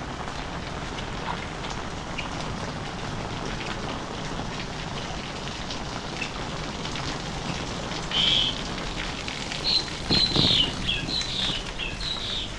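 Heavy rain falling steadily, an even hiss. About eight seconds in, a bird starts chirping in quick, high, repeated calls that stand out above the rain.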